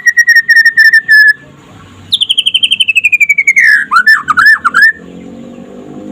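White-rumped shama (murai) singing loud rapid 'trotol' trills: a fast, even trill that stops just over a second in, then after a short gap a trill sliding down in pitch that breaks into quick up-and-down whistled swoops, ending about five seconds in.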